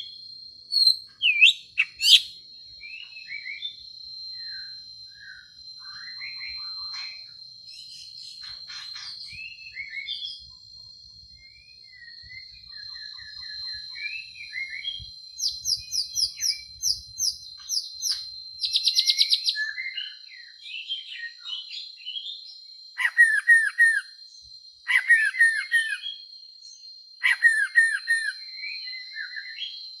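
Songbird singing varied whistled phrases, slurred notes and quick repeated trills, loudest in sharp bursts near the start and again in repeated rapid phrases near the end. A steady thin high whine runs underneath the whole time.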